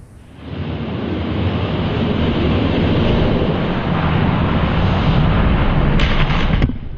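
Two die-cast Hot Wheels monster trucks rolling along a plastic drag-strip track, their wheels making a loud, steady rumble. It builds up about half a second in and stops suddenly near the end, with a couple of sharp clacks just before it cuts off.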